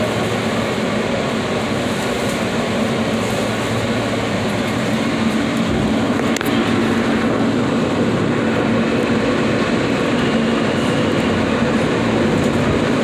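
New York City subway F train running between stations, heard from inside the car: a steady rush of wheels on rail with a low, even hum underneath.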